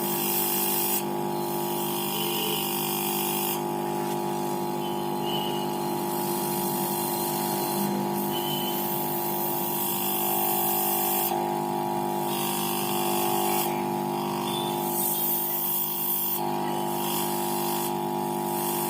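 A refrigerator compressor running steadily on direct mains power without its starting relay, a steady hum with air hissing out of its open tube under full pressure.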